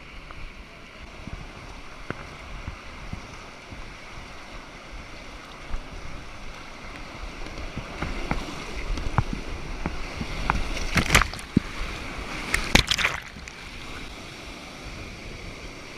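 Rushing whitewater hissing steadily, growing louder and rumbling in the middle, with a few sharp knocks about two-thirds of the way in.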